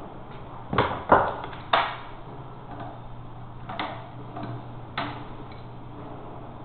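Several sharp knocks and clicks: three close together about a second in, then two fainter ones later, over a steady low hum.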